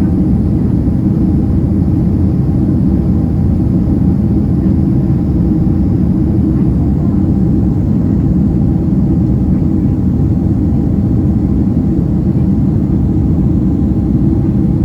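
Steady cabin noise of a Boeing 767-300ER airliner in flight: a loud, even rumble of jet engines and airflow with no change in level.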